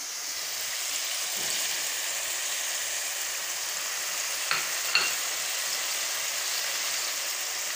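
Chicken, onion, tomato and chopped green bell pepper frying in oil in a karahi, with a steady sizzle. Two sharp taps come about halfway through.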